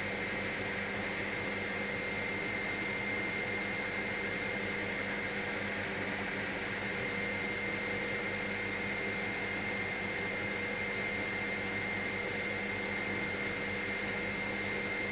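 Helicopter in cruising flight: steady cabin drone of rotor and engine, with constant whining tones from the drivetrain over a broad hiss that does not change.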